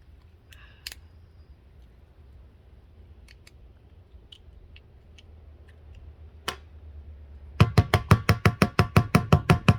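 Small scattered clicks and taps from handling a plastic glue bottle while working its seal loose. Near the end comes a fast run of about fifteen loud, ringing knocks, roughly seven a second.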